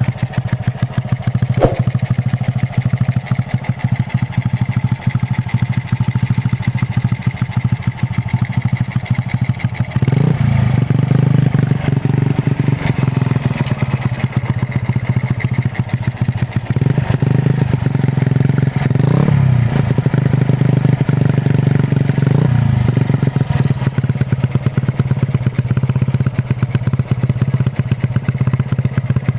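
Honda Astrea motorcycle's single-cylinder four-stroke engine idling steadily through an aftermarket KUO funnel-style exhaust, blipped four times in the middle with short revs that rise and fall.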